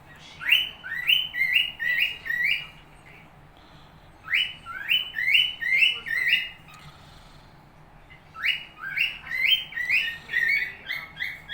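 Cockatiel whistling: three runs of quick, sharply rising whistled notes, each run two to three seconds long with a short pause between them.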